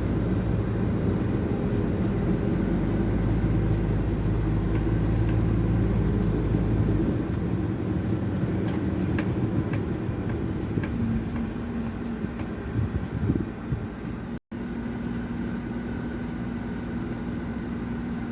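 Scania 540 truck's six-cylinder diesel engine pulling under load, then easing off about seven seconds in and settling toward a steady idle as the truck slows to a stop, with a few faint ticks along the way.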